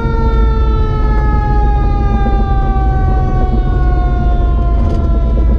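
A siren wailing on one long note that slides slowly down in pitch and fades out near the end, over a steady low rumble of vehicle and wind noise.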